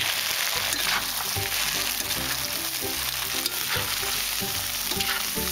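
Freshly added julienned carrots and meat sizzling in hot oil in a cast-iron kazan over a strong fire, stirred with a skimmer that scrapes through the pot now and then. This is the carrot-frying stage of Uzbek plov.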